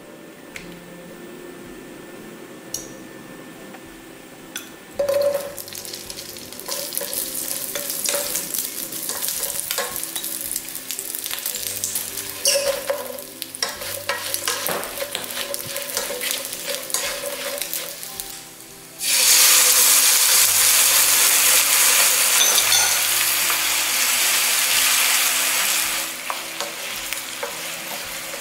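Sausages and rice cakes frying in an oiled frying pan, crackling and sizzling as a wooden spatula stirs them. About nineteen seconds in the sizzle turns much louder and steadier, easing off again near the end.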